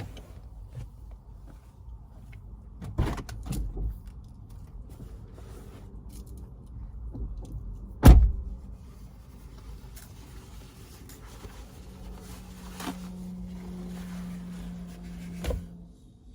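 Knocks and thumps inside a car, the loudest about eight seconds in. Near the end a small electric motor hums steadily for about four seconds and stops with a thud, like a power window closing.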